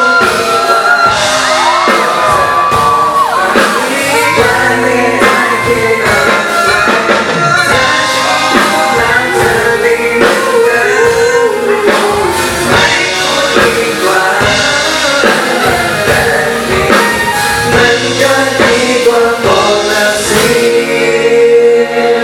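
Live pop song performed on stage: amplified band with drum hits under a singer's held, gliding notes.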